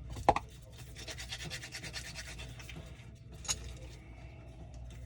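Rapid back-and-forth scraping from hand work, with a knock just after the start and a sharp click about three and a half seconds in, over a low steady hum.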